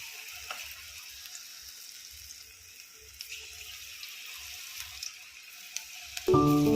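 Pakodi deep-frying in hot oil: a steady sizzle with scattered small crackles. Loud music comes in near the end.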